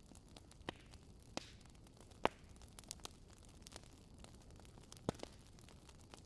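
Campfire crackling: scattered sharp pops and snaps of burning wood over a low, steady hiss, the loudest pop a little over two seconds in.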